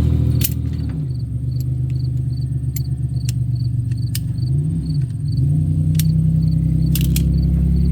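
Car engine running just after a start, its revs dropping from a fast idle about a second in and dipping and rising again around five seconds. Crickets chirp steadily in the background, about twice a second.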